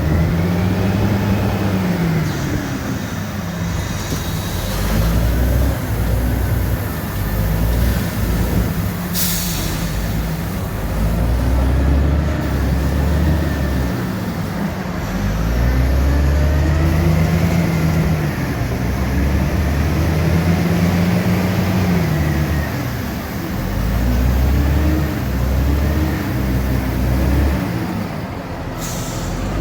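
Dump truck's Caterpillar 3406 diesel pulling through the gears, its pitch climbing and then dropping at each shift, over and over. A short hiss of air comes about nine seconds in and again near the end.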